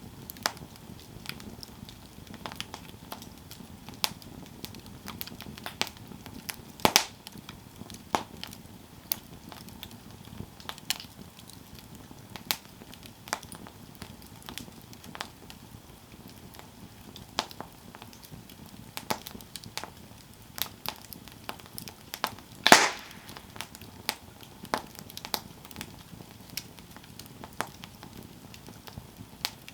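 Campfire crackling: an irregular run of sharp snaps and pops, two of them much louder, about a quarter of the way in and again about three quarters in, over a faint low rumble of the burning fire.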